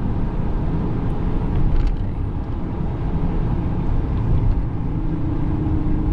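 The 6.4-litre 392 HEMI V8 of a 2018 Dodge Challenger Scat Pack running hard under full-throttle acceleration on a wet road, with the rear wheels spinning. The sound is loud and steady.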